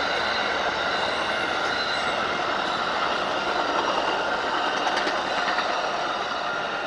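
Train rolling past the crossing: a steady rush of wheels on rail, with faint high wheel-squeal tones and a few clicks, fading near the end.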